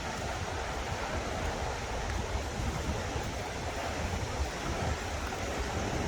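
Steady rushing noise of flowing floodwater, with wind buffeting the microphone in a low, uneven rumble.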